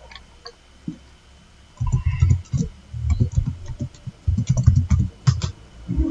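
Typing on a computer keyboard: an irregular run of key clicks and thuds starting about two seconds in.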